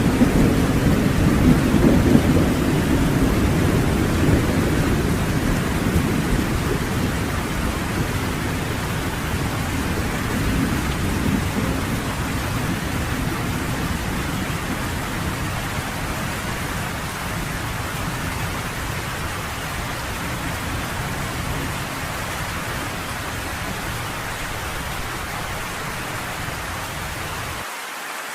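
Steady rain falling, with a long rolling rumble of thunder that is loudest at the start and dies away over the first half. Near the end the deep low part of the sound cuts off abruptly, leaving only the rain hiss.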